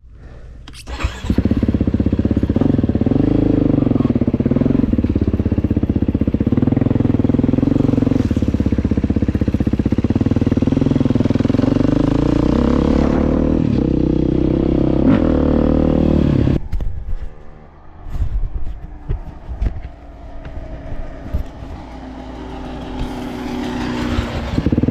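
Dirt bike engine running hard, its pitch rising and falling with the throttle, then dropping off about two-thirds of the way in to a quieter low running with some clatter, and picking up again near the end.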